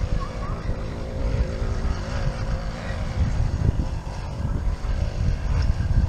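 Wind buffeting the microphone of a camera riding on a moving mountain bike: a low, uneven rumble, with a faint steady whir over it.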